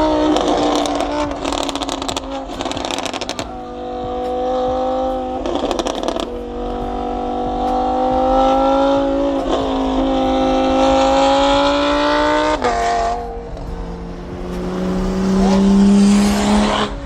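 BMW M4 twin-turbo inline-six running under light load while driving, its note slowly rising and dropping suddenly about twelve and a half seconds in, as at a gear change. Early on, patches of rushing hiss stand out. The engine has a big-turbo-like whoosh and won't take throttle because its charge pipe has come off.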